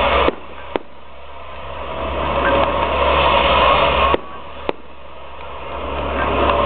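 Fireworks going off: a sudden bang about a third of a second in and another about four seconds in, each followed half a second later by a sharp crack. A steady noisy background drops away after each bang and slowly swells back.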